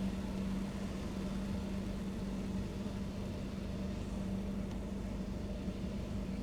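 A car being driven, heard from inside the cabin: a steady low rumble of engine and road noise with one constant hum that sets in at the start.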